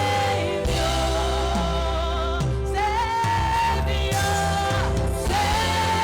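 Live gospel worship music: a singer holding long, slightly wavering notes over the band, with a bass line moving underneath.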